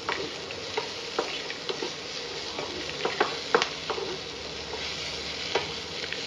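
Potatoes and beans sizzling as they fry in a nonstick pan, with a spatula stirring and scraping, making scattered sharp clicks against the pan.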